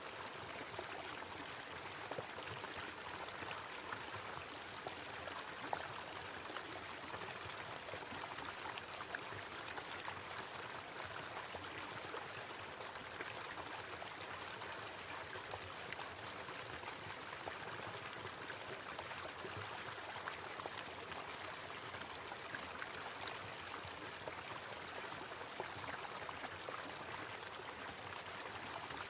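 A small waterfall splashing and running steadily, with little irregular drips and splashes through it.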